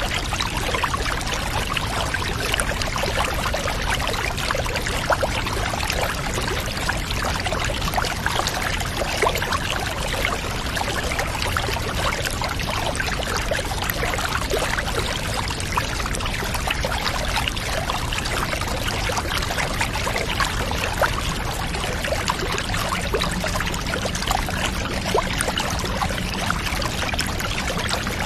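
Water running and pouring steadily into a bath, a continuous trickle thick with small splashing drips.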